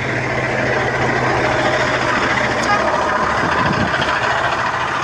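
Street traffic with a vehicle engine running steadily close by, a constant low hum under general traffic noise.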